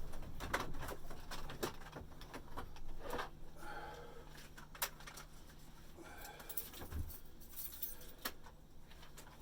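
Scattered metallic clinks, taps and rattles of hand tools being picked up and handled, with a couple of brief scraping sounds, over a faint steady low hum.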